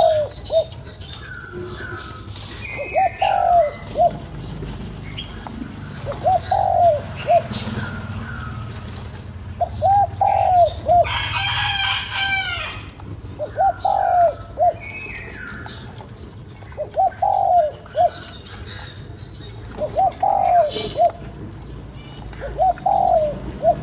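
Spotted dove cooing: a short low phrase of a few arched notes, repeated about every three and a half seconds, eight times. Faint chirps from other small birds come between the phrases, and a louder, higher call from another bird breaks in about halfway through.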